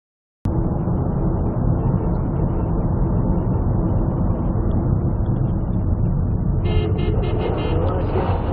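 Silence, then a sudden start of steady low road and engine rumble from a moving vehicle, heard through a dashcam. Near the end a light, evenly repeating higher sound joins the rumble.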